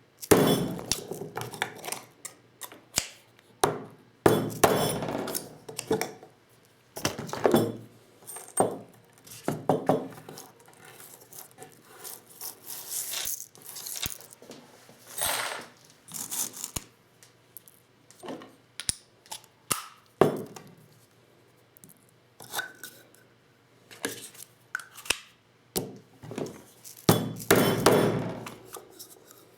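Hand-handling of a Lee Loader shotshell reloading set and its 12-gauge shell components: irregular metallic clinks, clicks and light knocks, mixed with rustling and scraping as parts are picked up and set down.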